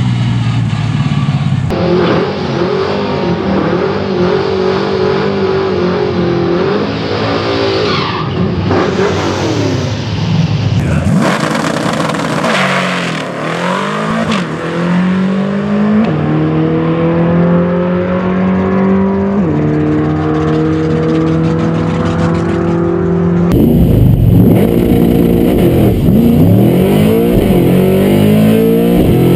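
1999 Camaro SS LS1 V8 running through 3-inch stainless AR3 race mufflers, with a deep exhaust note, accelerating hard. Its pitch climbs and drops back at each gear change, twice in the second half, and the sound changes abruptly at several cuts between driving clips.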